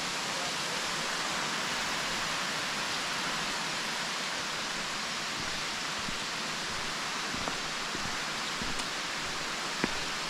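Steady rush of a waterfall, cascading water falling over rock. A few short clicks come in near the end.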